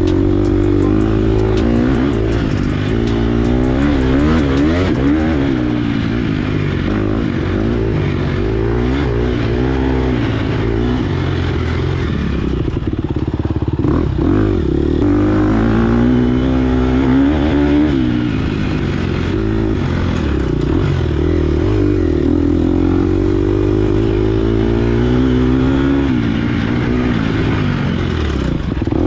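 Dirt bike's 250 cc four-stroke single-cylinder engine (2022 Gas Gas EX250F) running hard under load, its pitch rising and falling every second or two as the throttle is worked on and off.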